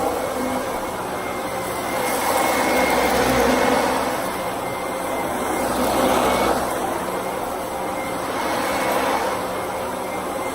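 Vacuum cleaner running steadily, its noise swelling and easing every few seconds as it is worked back and forth.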